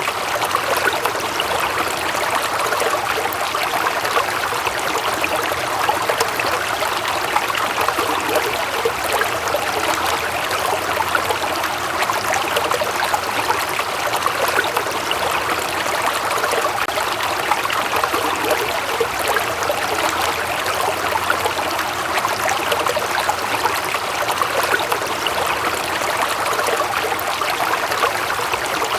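Steady running water of a stream, an even, continuous babble.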